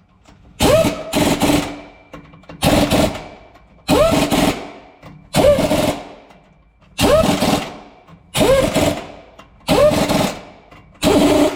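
Electric impact wrench hammering in short trigger bursts, about eight of them at a steady pace. Each burst starts with a rising motor whine and goes into a fast rattle.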